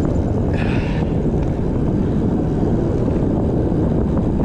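Wind buffeting the microphone of a camera on a moving bicycle: a steady low rumble with road noise underneath.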